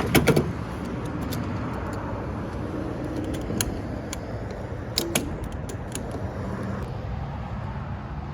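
Steady low hum of a car, with a few sharp clicks and clunks at the start and again about five seconds in.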